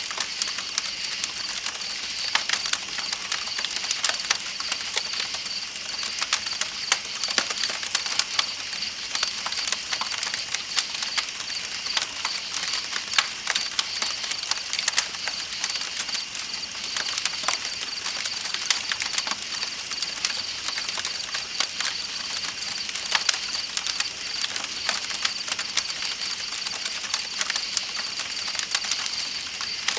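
Campfire crackling with frequent sharp pops, over a steady high-pitched chorus of night insects and the even rush of a flowing river.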